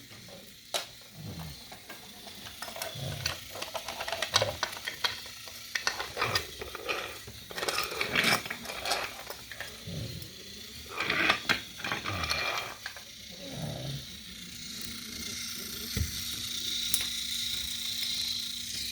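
Wooden toy trains and wooden track pieces clattering: irregular clicks, knocks and rattles as the engines are pushed and handled along the track, easing into a faint steady hiss over the last few seconds.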